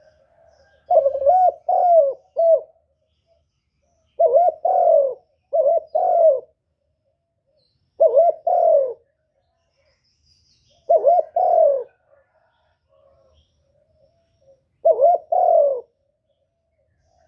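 A bird cooing in six short phrases of two or three low, arching notes each, with a pause of a second or more between phrases.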